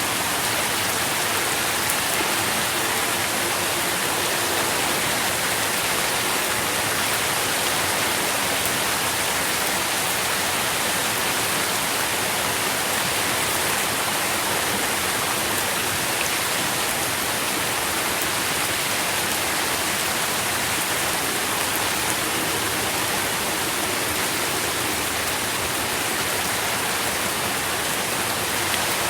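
Steady rain falling, a continuous even hiss with fine patter of drops on leaves, without breaks or changes.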